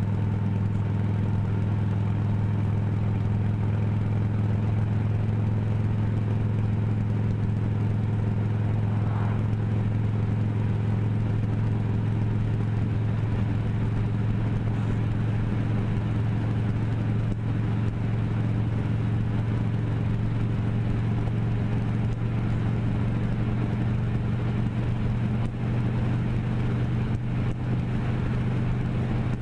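Motorcycle engine running at a steady pace while riding, a constant low hum with no change in revs.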